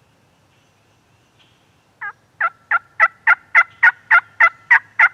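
A turkey yelping: about eleven loud, sharp notes in a quick, even series at about three a second, starting about two seconds in.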